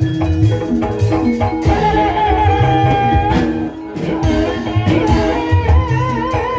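Live gending ebeg accompaniment: Javanese gamelan-style ensemble music with frequent low drum strokes under repeated pitched percussion notes. A high melodic line is held steady for about a second, then wavers with vibrato near the end.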